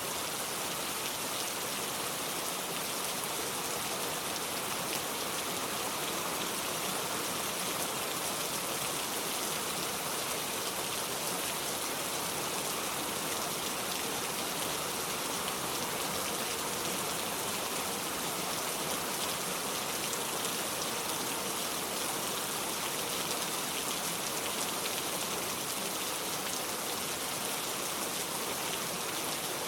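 Steady, unbroken rain falling hard, a dense hiss of many drops.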